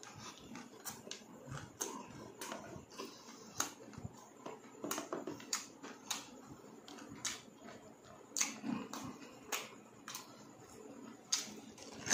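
A person chewing and smacking his lips while eating fried pork offal and rice by hand, with irregular sharp wet clicks from the mouth.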